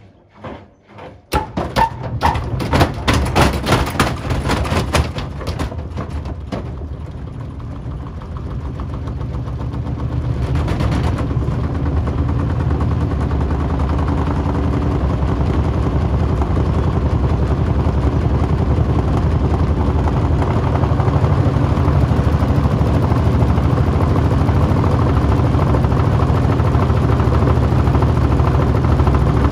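AEG/Electrolux washing machine drum loaded with a 6-litre water bottle: for several seconds a rapid series of loud bangs as the heavy, unbalanced bottle knocks about the drum. Then the drum speeds up into a steady, loud spin hum.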